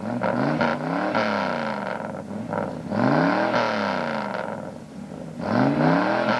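Car engine revved in three short blips, each rising in pitch and falling back, about two and a half seconds apart.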